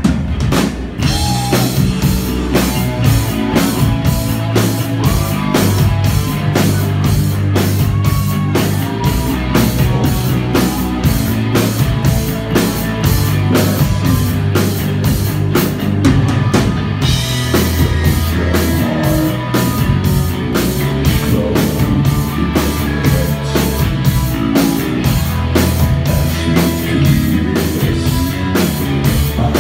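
Live rock band playing a song: a drum kit keeps a steady beat under bass and guitar. The cymbals drop out for about a second halfway through, then come back in.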